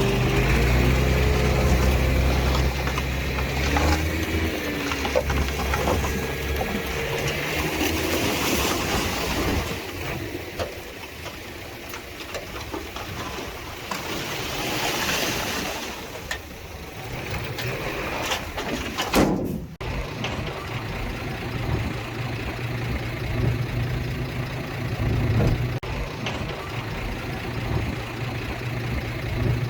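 Heavy diesel earthmoving machinery running, its engine note rising and falling, with wavering squeaks in the first several seconds. The sound briefly cuts out about two-thirds of the way through, then the engine sound resumes.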